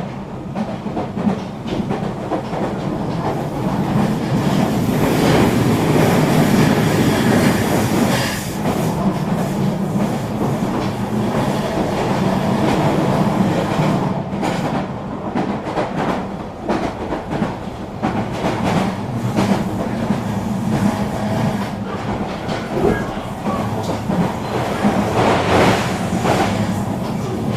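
Eurobahn RE3 regional train running along the line: a steady rumble from the running gear, with sharp wheel clicks over the rail joints scattered through it.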